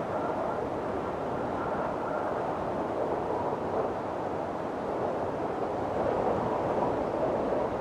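Windstorm wind blowing steadily, a rushing noise with faint whistling tones that come and go.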